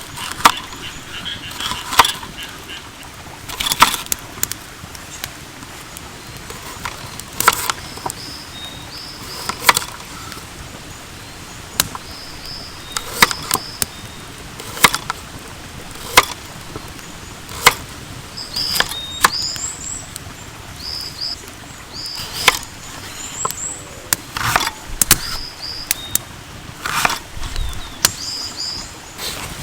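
Irregular knocks, clicks and clatter of hands handling cooking gear and ingredients, with birds calling in short repeated notes in the background, most often in the second half.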